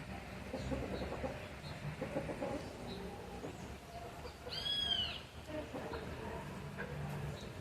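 Chickens clucking softly and continuously, with faint high peeps. About halfway through comes one louder, high call that rises and falls in pitch.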